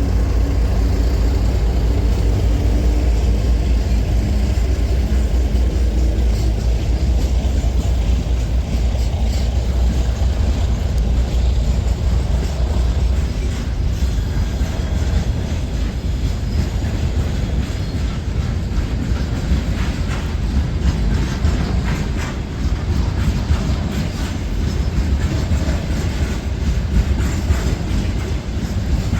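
Train passing close by: a heavy low rumble with a steady engine note that fades after about seven seconds, then the wheels clicking and rattling over the rail joints as the cars go by.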